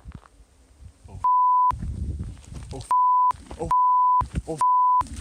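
Censor bleeps: four short, loud beeps of one steady pitch, about half a second each, starting about a second in and blanking out a shouting voice. Fragments of the voice and a low rumble come through in the gaps between them.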